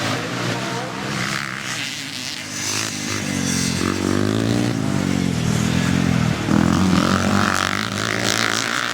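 Classic motocross bikes racing on the track, engines revving up and down through gear changes. They grow louder from about three and a half seconds in as bikes come close, with a sharp drop in pitch at a gear change a little past the middle.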